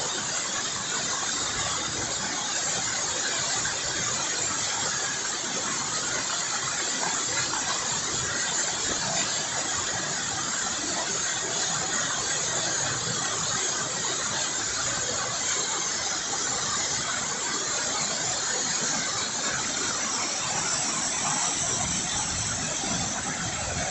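Waterfall in spate, heard from its foot: a steady, loud rush of heavy falling water.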